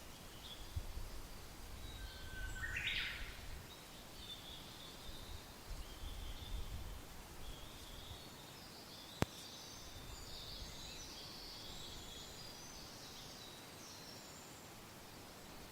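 Outdoor ambience of light wind gusting and small birds chirping and twittering, with a louder sweeping call about three seconds in. The low gusts die away after about seven seconds, a single sharp click comes a little after nine seconds, and the birds then chirp more busily.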